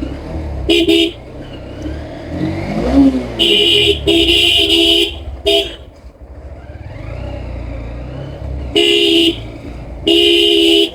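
Vehicle horn honked repeatedly in short, loud blasts, about seven in all, some in quick runs of two or three, over the low rumble of a motorcycle engine and road traffic.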